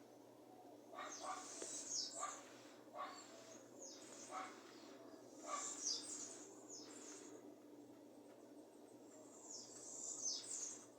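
Small birds chirping: repeated short, high calls that sweep downward, coming every second or so, with a pause of a couple of seconds before a last cluster near the end.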